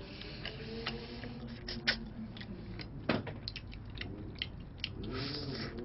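Close-miked eating of fried chicken: irregular wet clicks and crunches of chewing, with crispy pieces being pulled apart by hand.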